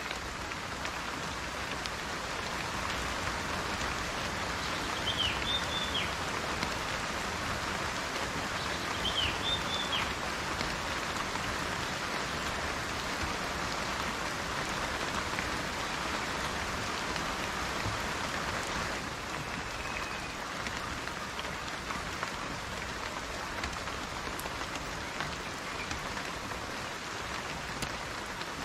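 Steady rain falling, an even continuous hiss, with two short high chirps about five and nine seconds in.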